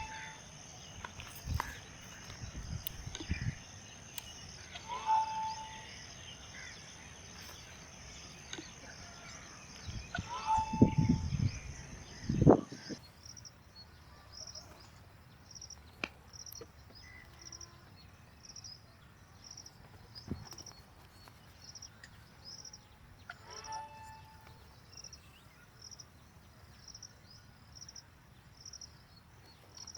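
Outdoor ambience with a bird giving a short call now and then, low knocks and rumbles about ten to twelve seconds in, then a soft, steadily repeating high insect chirp.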